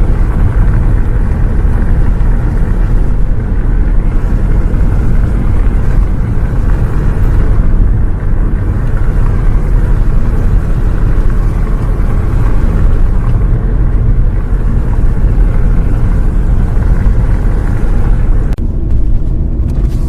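Steady low rumble of a bus on the road, heard from inside: engine and road noise, heaviest in the deep bass.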